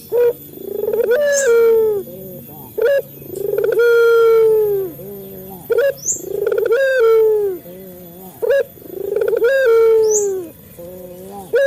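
A male puter dove (a local collared dove) cooing repeatedly. Each call is a short sharp note followed by a long, drawn-out coo, and it comes about four times, evenly spaced.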